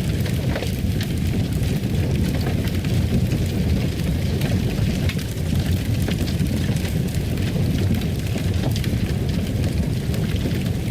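Wood fire crackling in a fireplace: a steady low rumble of the flames with frequent small sharp crackles and pops scattered throughout.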